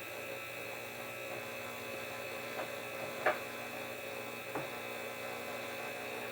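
Steady electrical hum, with three light clicks about two and a half, three and a quarter, and four and a half seconds in; the middle click is the loudest.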